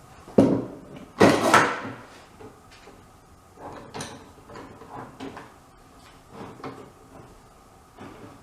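Wooden parts being handled: a sharp knock, then a louder, longer scraping clatter about a second in, followed by several lighter knocks and clicks.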